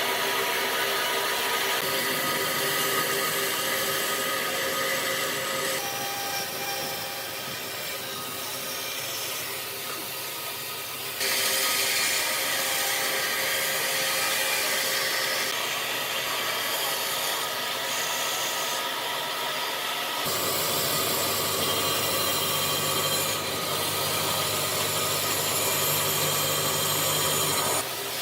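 Electric power tool running on wood with a steady motor whine. The sound changes abruptly twice, about a third and about two thirds of the way through.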